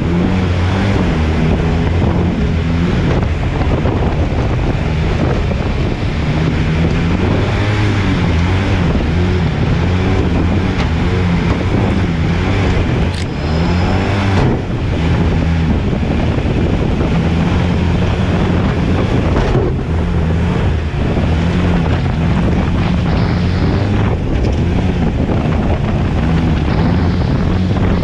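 Jet boat engine running hard, its pitch rising and falling with the throttle, over rushing water and wind buffeting the microphone.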